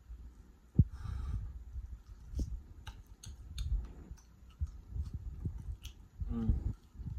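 Close-miked chewing of ribeye steak: irregular low thuds and wet mouth clicks, with one sharper knock just under a second in. A short hummed "mm" of enjoyment comes about six seconds in.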